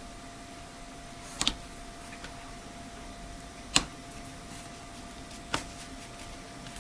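Sharp plastic clicks, three louder ones a couple of seconds apart with the first one double, as the Huawei MediaPad 10 tablet's case is pried open and its snap latches let go. A faint steady hum runs underneath.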